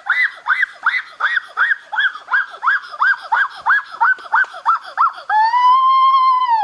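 A high-pitched voice shrieking in quick repeated yelps, about three a second, then one long held scream.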